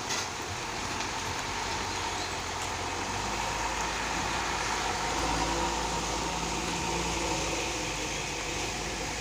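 Heavy truck engine running under a steady hiss, its low rumble growing louder from about three seconds in.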